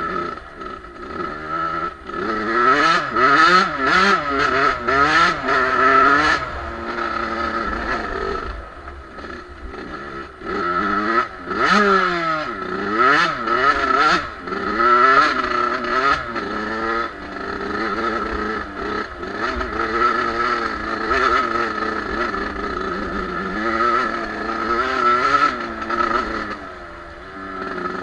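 Two-stroke Suzuki RM motocross bike engine being ridden hard, its pitch sweeping up and dropping back again and again through the gears. It is loudest in three surges: early, in the middle and near the end.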